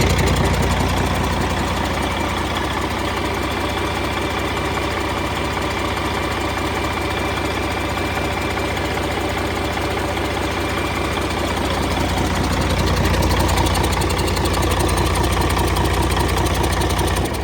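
Caterpillar C13 inline-six diesel truck engine running steadily at idle, with a diesel clatter; it gets a little louder about twelve seconds in.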